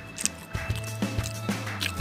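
A person chewing a mouthful of sausage sandwich, a few short wet clicks from the mouth, over quiet background music and a steady low hum.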